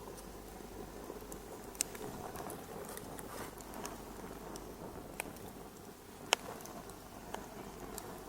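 Wood fire crackling: a steady low hiss of burning with scattered sharp pops, the loudest about six seconds in.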